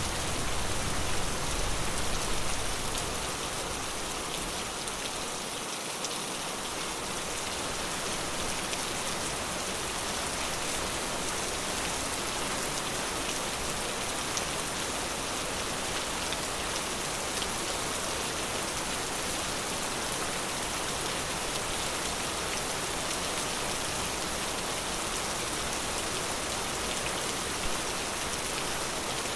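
Steady forest rain falling, an even hiss with scattered separate drops, a little louder for the first few seconds.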